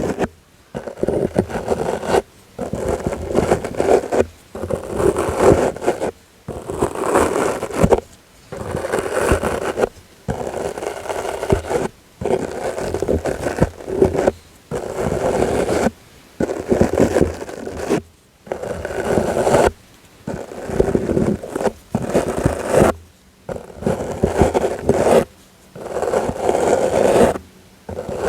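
Brush strokes for ASMR: a brush swept again and again with a soft scratchy rustle, one stroke every second and a half to two seconds with brief pauses between.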